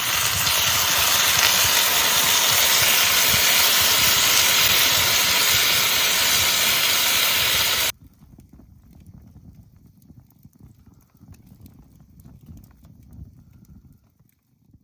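Food frying over a campfire: a loud, steady sizzle with scattered pops that cuts off suddenly about eight seconds in, leaving only faint crackles.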